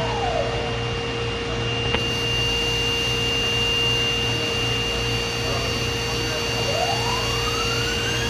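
Spindle of a DMG Mori DMC 1035V vertical machining center running at its top speed of 12,000 RPM with a steady hum and several high held tones, and a tone gliding upward near the end. The smooth, even hum is the sign of a spindle in good condition.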